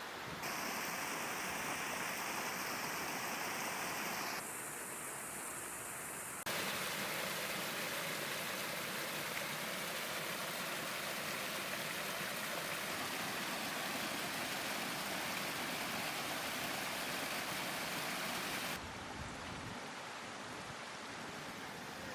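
Steady outdoor rushing noise, with no speech. It changes abruptly between clips about half a second, four and a half, six and a half and nineteen seconds in.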